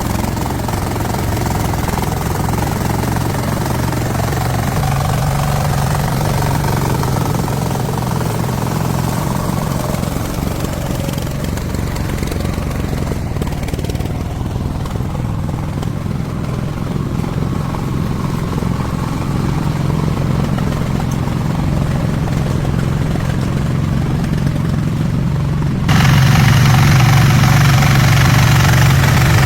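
Engine running steadily with a low, even note. About 26 seconds in it grows louder and harsher for a few seconds.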